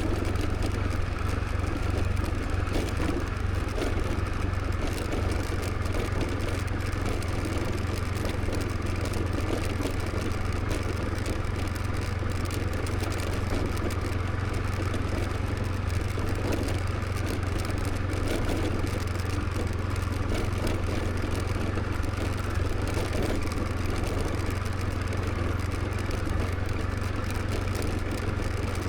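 Motor scooter running steadily on the move, with its engine and road noise holding an even level.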